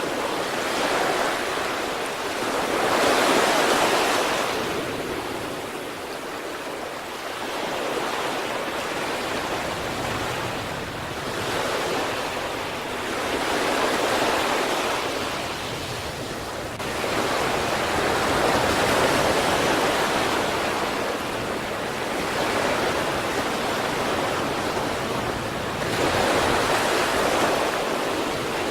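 Sea waves breaking on the shore, a continuous wash of surf that swells and falls back every few seconds.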